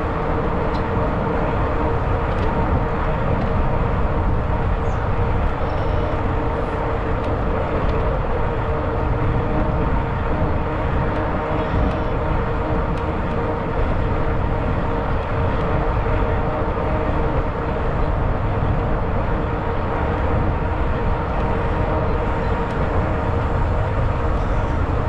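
Riding noise from a Zota Zephyr 20-inch fat-tire electric bike: wind rushing over the microphone with a steady hum from the moving bike underneath.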